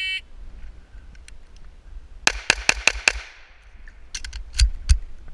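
A shot timer's short electronic start beep, then two rapid strings of pistol shots, about five quick shots each, the first string about two seconds in and the second about four seconds in.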